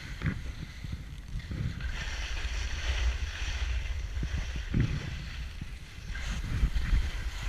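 Wind buffeting the microphone: a constant low rumble with irregular thumps, under a steady hiss.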